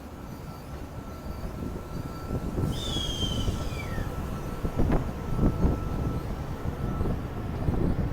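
Passenger train rumbling in the station, growing louder. A high squeal falls in pitch about three seconds in, and low knocks follow a couple of seconds later.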